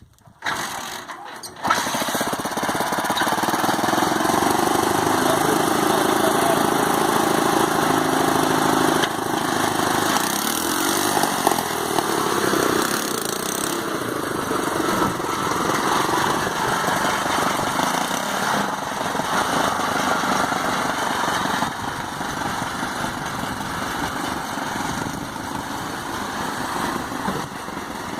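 Small engine of a homemade tractor built from car and motorcycle parts starting about two seconds in, then running steadily, with its speed shifting for a few seconds near the middle.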